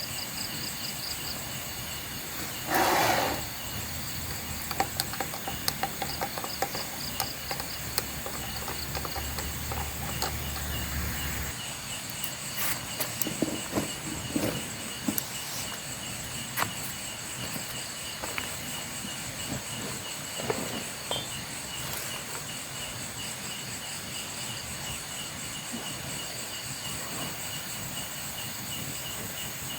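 Crickets and other night insects chirring steadily in several high, even tones. A short, louder noise comes about three seconds in, and small clicks and knocks are scattered through.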